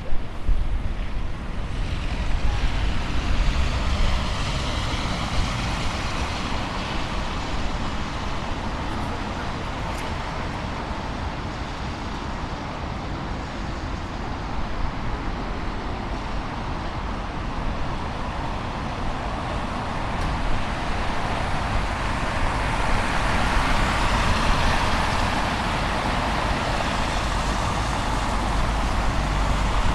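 City street traffic: a steady rumble of passing vehicles, with one vehicle swelling louder as it goes past in the last several seconds.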